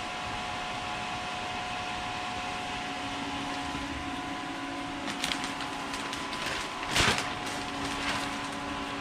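Steady whir of a fan-forced hot-water radiator heater running, with a constant faint whine and a low hum joining in a few seconds in. A brief rustle comes about seven seconds in and is the loudest moment.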